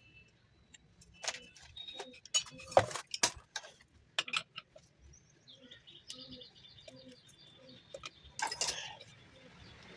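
A series of sharp clicks and knocks, the loudest about three seconds in and again near the end. Between them runs a repeated high chirping.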